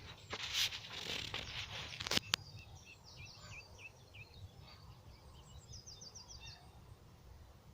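Small birds singing, with repeated short high chirps and a quick trill of notes a little after halfway, over a steady low outdoor rumble. Louder rustling with two sharp clicks fills the first two seconds or so.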